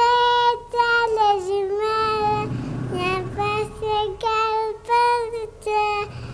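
A young boy singing a Nepali song unaccompanied in a high voice, holding long notes with short breaks for breath.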